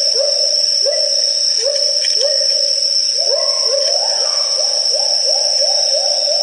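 Great argus pheasant calling: a series of short, rising whistled hoots that come faster toward the end, over a steady high-pitched whine.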